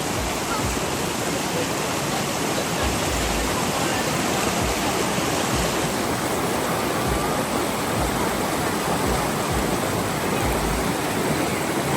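Fast-flowing river water rushing steadily over its bed.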